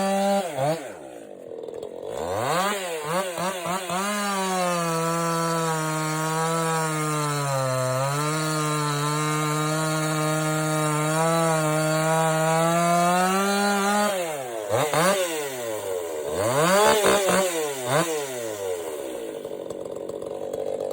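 Ported Stihl MS261 two-stroke chainsaw with a custom exhaust. It drops to idle within the first second and is blipped a few times. It is then held at high revs for about ten seconds, the pitch sagging briefly around the middle, before a run of quick revs up and down and a fall back to idle near the end.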